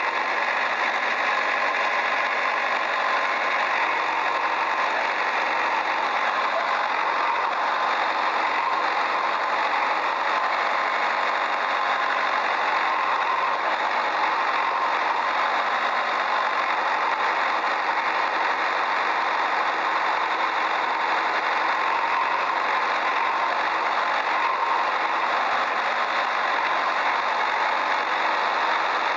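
Steady, unchanging motor-like running sound, an even hum with no revving, starts or stops.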